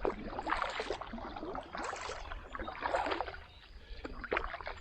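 Kayak paddle strokes: the blades dip and pull through the water in a steady rhythm, a splashy swish about once a second.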